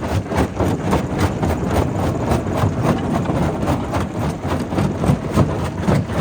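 Primary rock crusher working: a steady machine rumble under a dense, irregular run of knocks as stone is broken.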